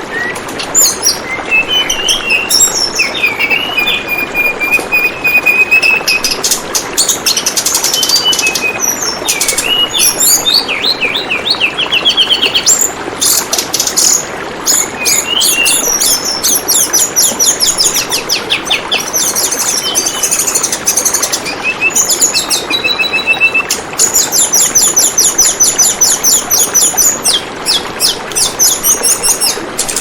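Tledekan bambu singing with rapid, high repeated chirps and trills, over the steady trickle of flowing water.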